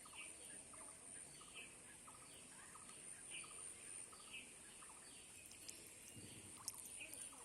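Faint, short wildlife chirps repeating about twice a second over a steady high-pitched hiss of outdoor ambience.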